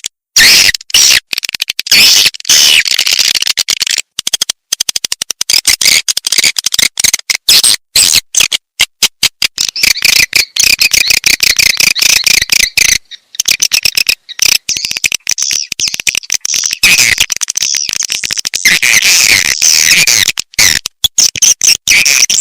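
Recorded swiftlet calls: a dense, loud stream of rapid high chirps and twitters, cut by frequent abrupt breaks. It is a swiftlet 'calling sound' recording of the kind played to lure swiftlets into a nesting house.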